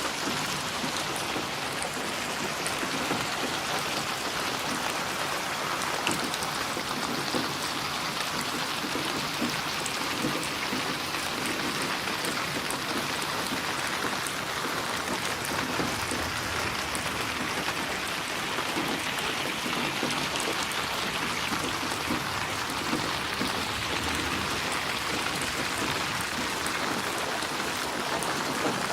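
Steady rain falling: an even hiss with many small drops pattering, unchanging throughout.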